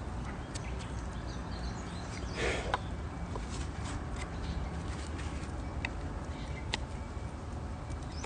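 Wood campfire crackling, with scattered sharp pops over a steady low rumble and a brief louder rustle about two and a half seconds in.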